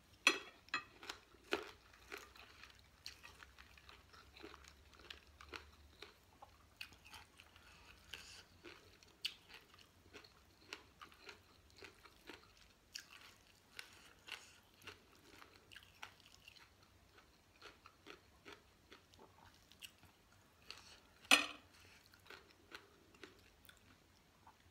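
Close-up chewing and crunching of a rice-noodle salad with raw vegetables such as cabbage, in many small crackly bites throughout. Two sharp sounds stand out as the loudest, one right at the start and one about 21 seconds in.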